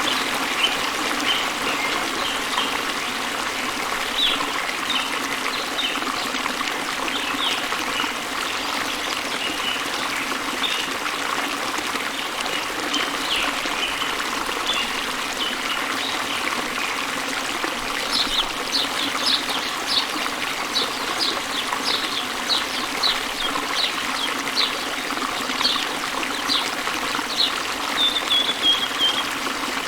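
Small waterfall spilling into a river, a steady trickling rush of water. Birds chirp over it, with a quick run of repeated short notes in the second half and a brief trill near the end.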